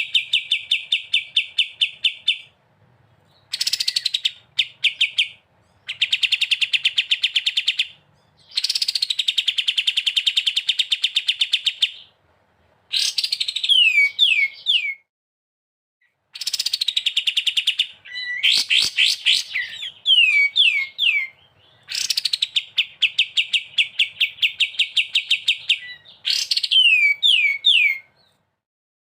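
A small songbird singing loud, rapid trills of evenly repeated notes, each burst opening with a falling note and lasting a few seconds, with short pauses between; three times the trill ends in a set of three quick downward-sweeping whistles.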